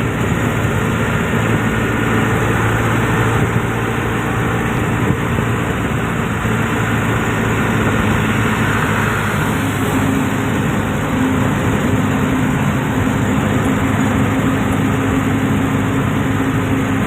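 A motor vehicle engine running steadily, with a constant low hum under an even wash of noise.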